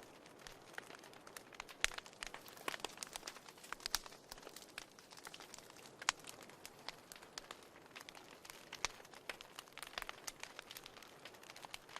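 Wood fire burning in a fireplace, crackling and popping irregularly over a soft steady hiss, with a few louder snaps.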